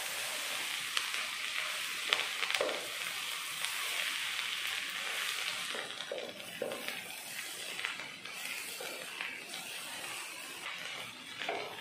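Kothu parotta (shredded parotta with egg and onion) sizzling in a hot pan while a wooden spatula stirs and turns it, with scattered taps and scrapes of the spatula against the pan. The sizzle softens about halfway through.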